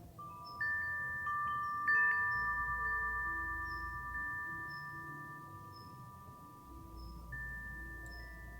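Wind chime swung by the wind: a cluster of clear ringing tones struck one after another in the first two seconds, ringing on and slowly fading, with another strike about seven seconds in. A low wind rumble runs underneath.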